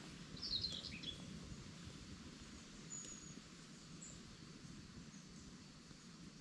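Faint bird calls: a quick cluster of high chirps about half a second in, then a few short, thin, high whistles, over a steady low background noise.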